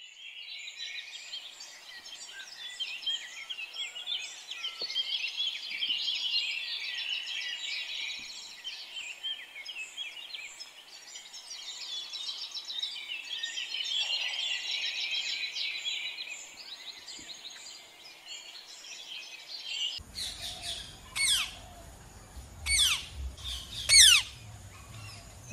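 Dense chorus of small birds chirping and twittering for about twenty seconds. Then, near the end, a few loud, harsh squawks from a blue-and-yellow macaw.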